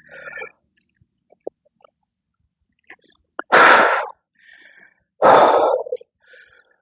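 A man breathing out hard twice, each breath lasting under a second: heavy exertion breaths during a bodyweight workout.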